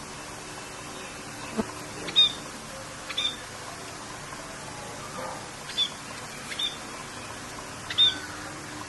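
Songbird giving short, sharp chirps every second or two over a steady hiss of falling rain.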